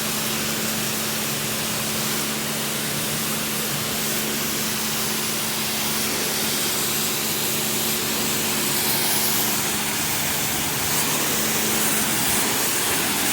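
High-pressure car wash pump running steadily with a low hum, while water sprays from the nozzles in a loud, even hiss.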